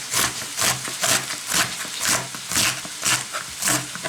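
A knife finely shredding a head of cabbage on a cutting board: an even run of crisp slicing strokes, about two a second.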